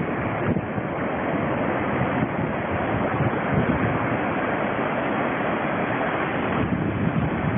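Hurricane wind blowing hard across a phone's microphone: a loud, steady rush of noise.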